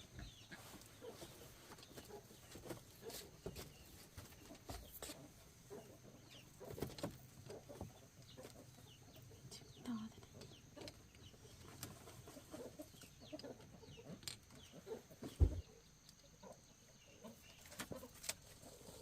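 Chickens clucking here and there, with scattered light knocks and one sharp thump a little past the middle.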